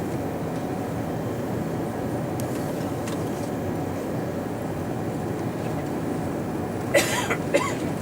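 Steady, even rumble of airliner cabin noise inside an Airbus A340-300 on the ground before takeoff. Two short, higher-pitched rising sounds stand out near the end.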